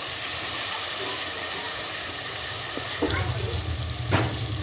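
Chopped onions, tomatoes and green chillies sizzling in hot oil in a metal pot as they are stirred. About three seconds in, a low steady hum comes in, with a couple of sharp knocks.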